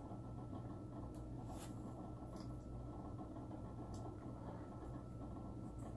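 A person chewing and biting into a peanut butter and jelly sandwich: a few faint, scattered mouth clicks over a steady background hum.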